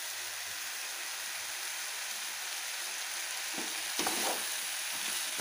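Masala of shallots, tomatoes and grated coconut sizzling steadily as it fries in a metal kadai, stirred with a slotted steel spatula that scrapes the pan a few times near the end. It is the last brief fry after the coconut goes in.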